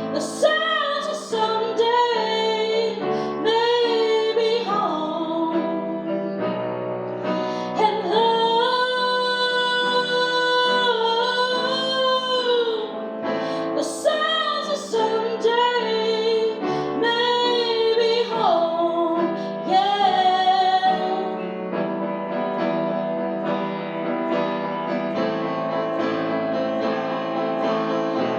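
A woman singing with piano accompaniment, holding long notes with vibrato. Her voice stops about three-quarters of the way through, and the piano plays on alone.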